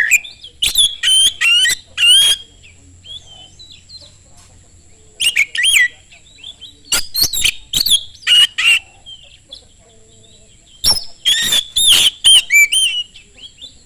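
Oriental magpie-robin (kacer) singing loud, fast runs of whistled and sweeping notes, delivered in four bursts with short pauses between them.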